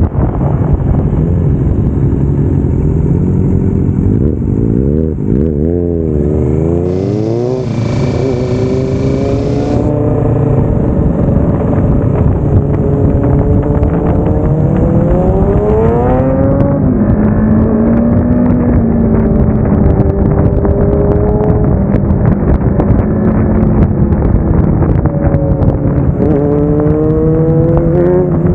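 Kawasaki Ninja 650 parallel-twin engine under way, revs climbing and then dropping again and again as it shifts gears, with a quick up-and-down wobble in revs about five to seven seconds in.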